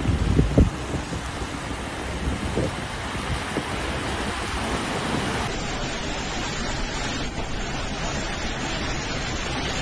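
Torrential rain with storm wind: a steady, dense rushing noise of the downpour, with a few low thuds of wind on the microphone in the first second. Partway through, the sound changes as the footage cuts to another rainstorm.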